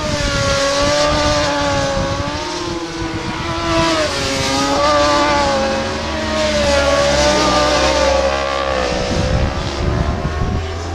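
Racing motorcycle engines at high revs, several bikes at once, their pitch rising and falling with throttle and gear changes; the pitch drops near the end.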